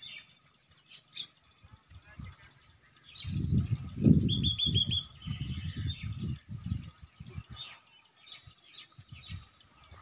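A small bird chirping, with a quick run of about six high notes a little after four seconds in and scattered faint chirps around it. Under it is a low rumbling noise that swells from about three seconds in and lasts about four seconds, the loudest sound here.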